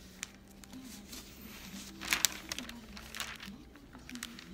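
A few soft crinkling rustles, the loudest about two seconds in, with a faint voice in the background.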